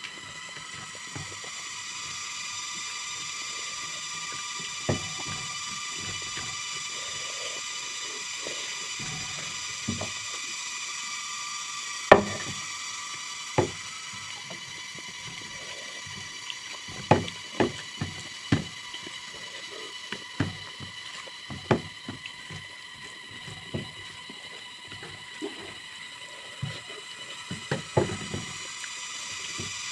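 Eating sounds: irregular sharp clicks and scrapes of a utensil against a plate, with quieter chewing in between, over a steady high-pitched whine.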